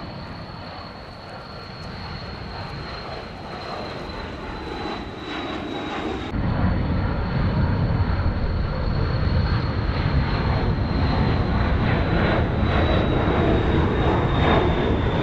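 Cessna 560XL Citation XLS's twin turbofan engines at takeoff power, the jet noise growing louder, with a thin high whine that slowly drops in pitch. The sound jumps louder about six seconds in.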